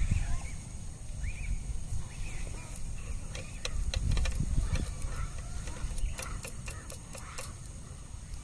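Outdoor woodland ambience: a steady high-pitched hum and a few short chirps over low rumbling, with a run of sharp clicks in the middle.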